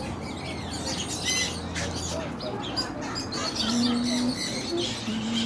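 Many parrots chirping and squawking at once in a parrot aviary, over a low steady hum.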